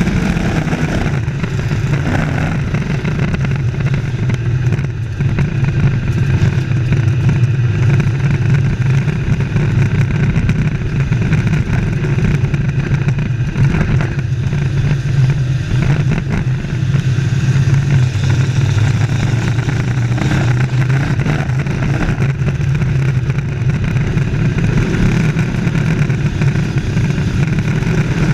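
Race trucks' engines running together on an oval track, a loud steady drone of several engines with no break.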